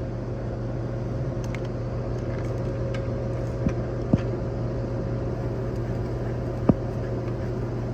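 Steady electrical and mechanical hum of air-conditioning equipment, with a few light clicks and ticks in the middle.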